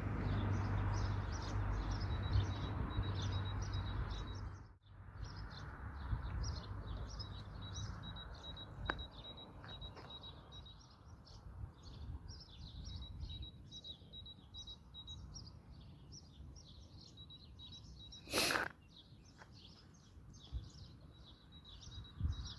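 Outdoor ambience of many small birds chirping continuously, with a low rumble during the first few seconds and one short loud noise burst about eighteen seconds in.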